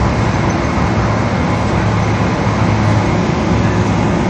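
Boeing 777's jet engines and airflow heard inside the passenger cabin as a steady loud roar with a low hum.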